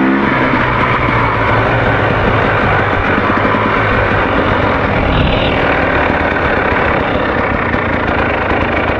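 Enduro dirt bike engine running while the bike is ridden, under a loud, steady rush of noise.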